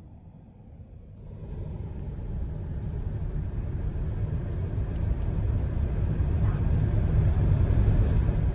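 Low rumbling noise that swells from about a second in and keeps building, then cuts off abruptly.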